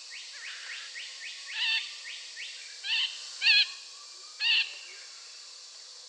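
Bird calls: four loud short wavering calls at about one-second intervals, over a fast run of faint rising chirps in the first two seconds and a steady hiss of background.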